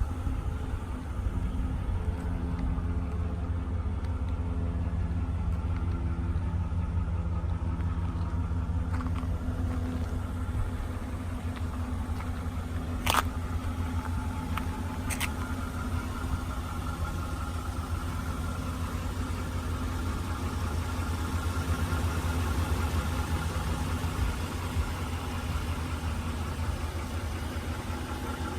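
A vehicle engine idling steadily with a low hum. Two sharp clicks come about two seconds apart a little under halfway through.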